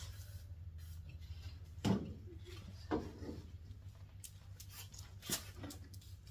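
A few separate knocks and clicks of hand tools and metal parts being handled, the sharpest about two seconds in, over a steady low hum.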